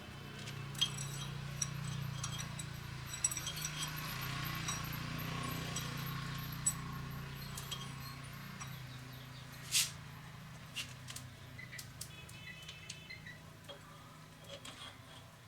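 Metal tools and engine parts clinking and tapping now and then, some strokes ringing briefly, over a low steady hum. A single sharper tap comes about two-thirds of the way through.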